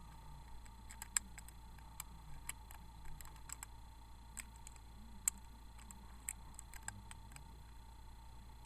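Light, irregular clicks and taps of small hard parts being handled as a snowplow attachment is fitted onto a Bachmann Terence the Tractor model, the sharpest about a second in and again after five seconds.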